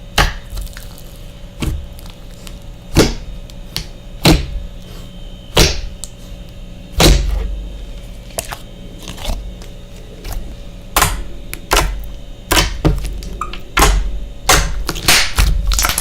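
Slime being pressed and poked by hand, making sharp clicking pops with soft thuds, one every second or so, coming faster near the end.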